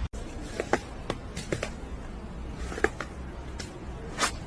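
A few light clicks and taps scattered over faint room noise, with a slightly louder one near the end.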